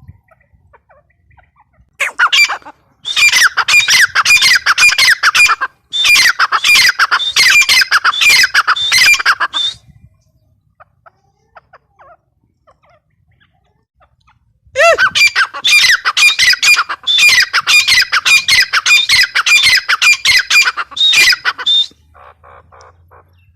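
Grey francolin calling: two long bouts of loud, harsh notes repeated rapidly at about four a second, each note falling in pitch, with a pause of several seconds between the bouts.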